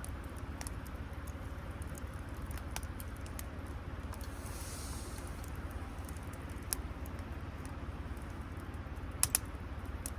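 Scattered light clicks and taps over a steady low rumble, with a brief hiss about four seconds in and a sharp double click near the end.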